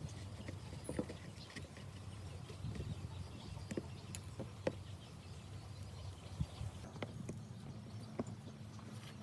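Irregular light knocks and clicks, scattered a few at a time, over a low steady hum.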